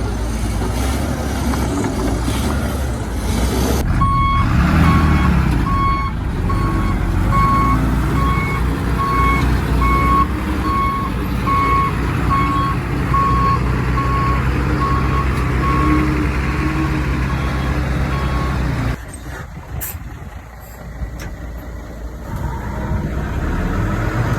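Heavy diesel machinery running with a steady rumble, and a reversing alarm beeping about once a second for most of the stretch. Near the end the beeping has stopped, the sound drops quieter for a moment, then the engine rumble rises again.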